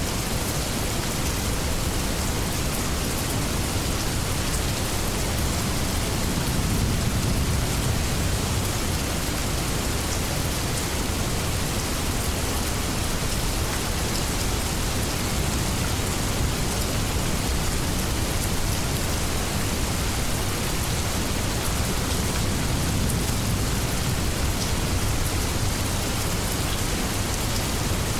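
Steady heavy rain falling, with a low rumble that swells a little a few seconds in.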